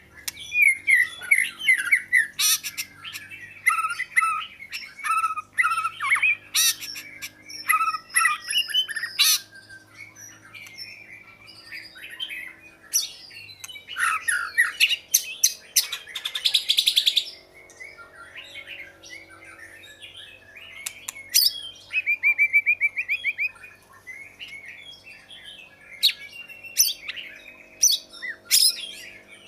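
Oriental magpie-robin singing: a long, varied run of whistled notes, chirps and short harsh notes, with a fast buzzy trill about halfway through.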